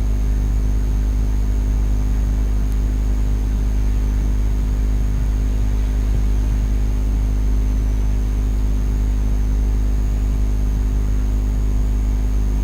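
Steady low drone of a car driving at highway speed, heard from inside the cabin, with a thin high whine running over it.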